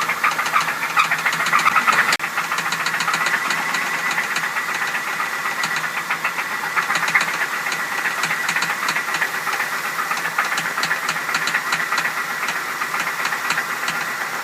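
Ford Crown Victoria's 4.6-litre V8 running just after starting, a little louder for the first two seconds and then settling to idle, with a real loud, fast, regular tick throughout; the owner, unsure of the cause, calls it an engine knock.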